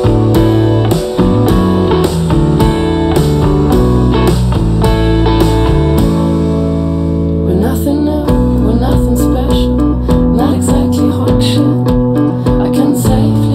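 Rock band song led by guitars over a steady drum beat. The drums drop away about halfway through, leaving guitars with sliding notes.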